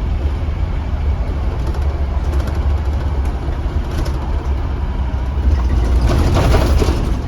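A 2015 Blue Bird Vision school bus's engine running with a steady low rumble, heard from inside the bus. It grows louder about six seconds in, with a burst of hissing noise.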